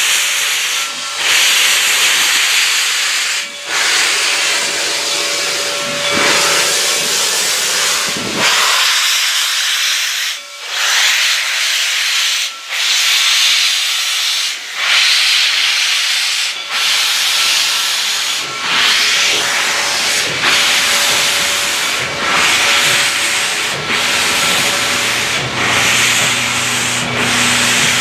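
Reading & Northern 4-6-2 steam locomotive No. 425 giving off a loud, steady hiss of steam, broken by brief dips about every two seconds. A low hum joins in about two-thirds of the way through.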